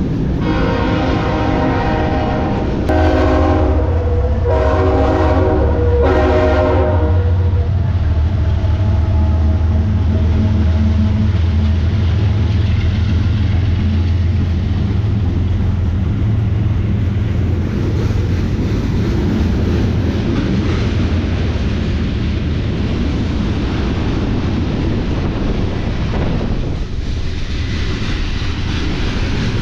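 Diesel freight locomotives passing and sounding their air horn in several blasts, the last ending about seven seconds in. After that comes a steady low rumble as the train rolls by.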